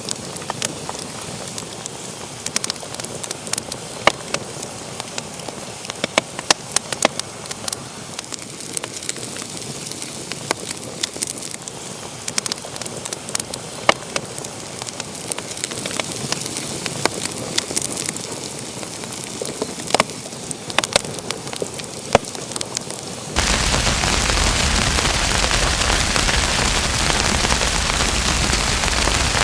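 Wood fire in a fireplace crackling, with many sharp pops over a soft hiss. About three quarters of the way through, the sound cuts abruptly to a louder, steady rushing hiss.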